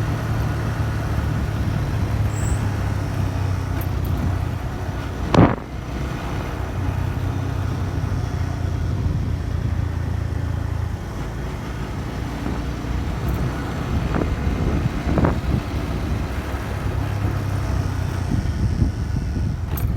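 Motorcycle engine running at a steady cruise, its low hum mixed with road and wind noise. A single sharp knock sounds about five and a half seconds in.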